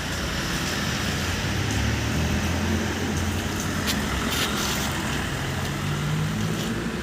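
Street traffic ambience: a motor vehicle engine running steadily under a general traffic hiss, with a couple of light clicks about four seconds in.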